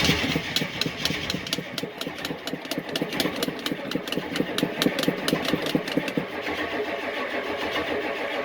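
IDI diesel truck engine running rough just after a cold start, with a steady diesel knock. It is struggling to stay running, which the owner takes for air getting into the fuel system.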